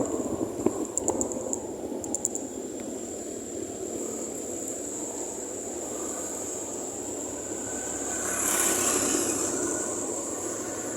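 Steady wind and road noise with engine hum from a moving motorcycle, with a few light clicks near the start and a louder swell of noise about eight and a half seconds in.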